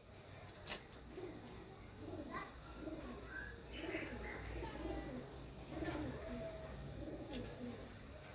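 Dove cooing: a run of low, soft repeated coos, with a few higher bird chirps. A sharp click sounds a little under a second in, and a couple more later.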